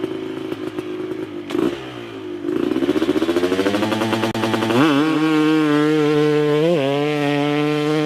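Two-stroke dirt bike engine ticking over, blipped once, then revved up in a steady rising climb and held at high revs with a few short throttle blips.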